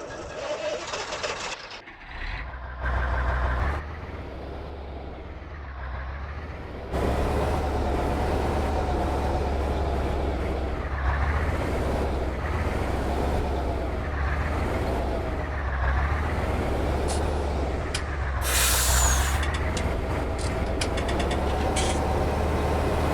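Trial truck's diesel engine working hard, its pitch rising and falling over and over, with a short loud hiss of compressed air from the air brakes late on.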